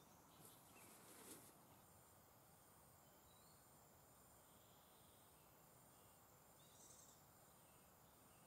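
Near silence at night, with a faint, high insect trill pulsing evenly about one and a half times a second.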